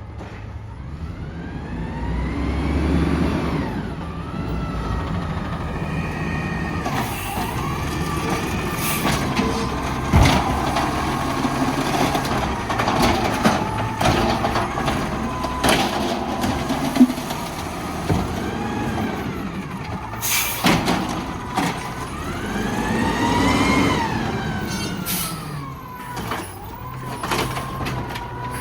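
Garbage truck at work: its engine revs up and back down twice as it drives the hydraulics, under a steady hydraulic whine, with several sharp bangs and clanks and a short burst of air hiss about twenty seconds in.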